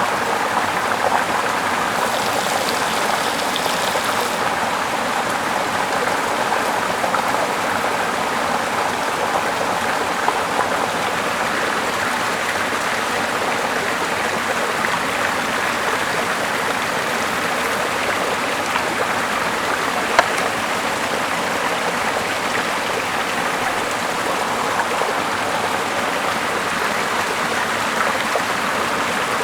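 Small mossy river flowing steadily over rocks, a constant rushing of water. There is a brief extra hiss about two seconds in, and a couple of single sharp clicks later on.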